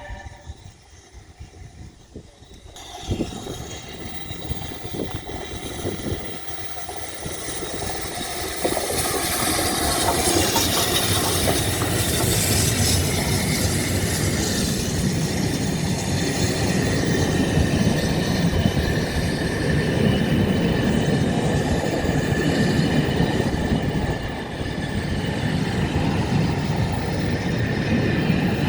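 Charter train hauled by Britannia-class steam locomotive 70000 and class 47 diesel 47810, approaching and passing close by. A rumble builds from about three seconds in and becomes a loud, steady rush of the train going by from about nine seconds in.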